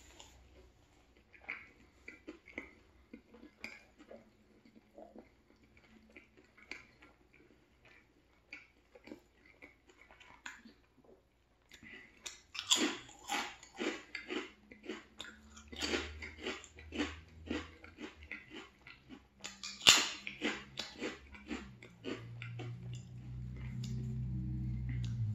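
Close-miked chewing of a turkey sandwich, soft sparse mouth sounds. About halfway through come loud, crisp crunches of veggie chips being chewed, with a low hum near the end.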